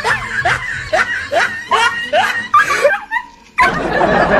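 A dog barking in a quick run of short, rising yips, two to three a second. After a brief pause, a sudden loud burst of dense noise starts near the end.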